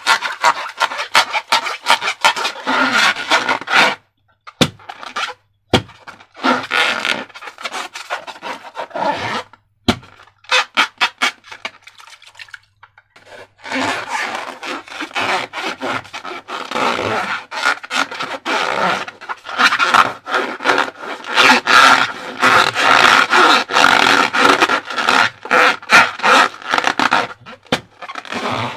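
Hands working a rubber balloon and slime: rapid squeaking, crackling rubber-on-rubber scraping and sticky squelches, dropping away briefly about four seconds in and again around ten to thirteen seconds.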